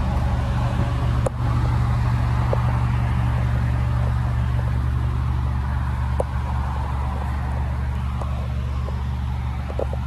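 Maserati GranTurismo's 3.0-litre twin-turbo V6 idling, a steady low drone with a few faint clicks.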